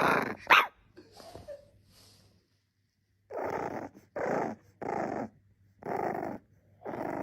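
A dog making short, rough, repeated sounds, about one a second, starting about three seconds in. Two short, louder sounds come right at the start.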